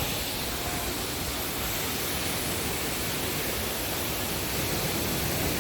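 A waterfall's steady rush of falling water: an even, unbroken noise.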